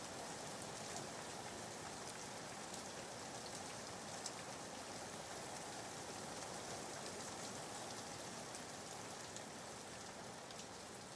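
Steady rain: a soft, even hiss of rainfall with faint scattered drop ticks.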